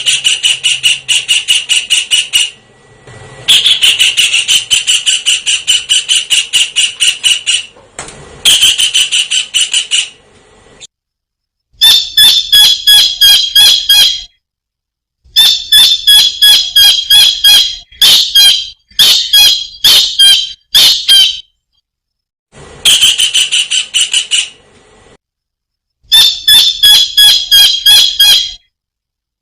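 Kingfisher (tengkek udang) calling in loud bouts of rapid, shrill repeated notes, about eight to ten a second. Each bout lasts a few seconds, with short pauses between bouts.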